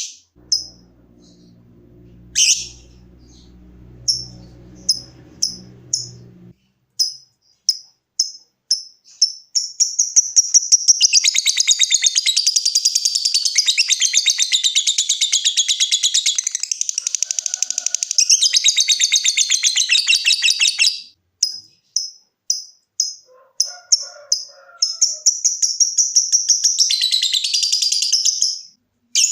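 Lovebird calling: a string of short, sharp ticking chirps (the 'ngetik' call), then about a third of the way in a long, unbroken, rapid chattering trill of about ten seconds (the 'ngekek' call). More ticks follow, then a second, shorter chatter near the end.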